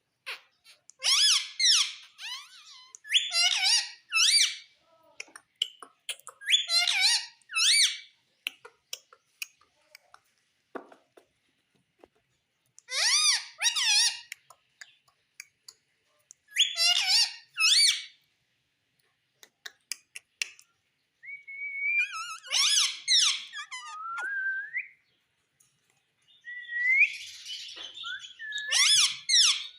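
Pet parrot giving loud, harsh squawks in short clusters every few seconds, with a few whistled pitch glides in the second half.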